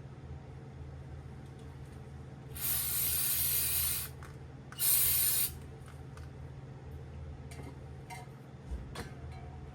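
Two hissing blasts of pressurised spray, the first about a second and a half long, the second about half a second. A few light clicks follow near the end.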